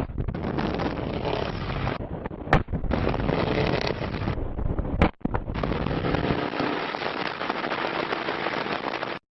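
Sports car exhaust crackling and popping in a dense, continuous string, cut off abruptly twice, about two and a half and five seconds in.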